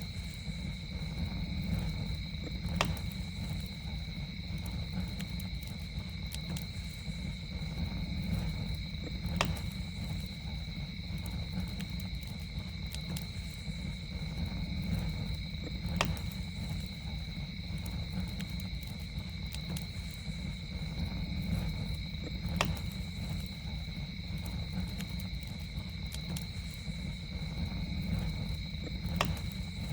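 Campfire burning with a low steady rumble and sharp wood pops about every six and a half seconds, over a steady high two-pitched insect trill.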